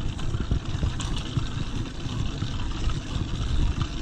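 Steady low rumble with irregular thumps: wind and movement noise on a chest-mounted camera microphone. The motorized bicycle's engine is not yet running.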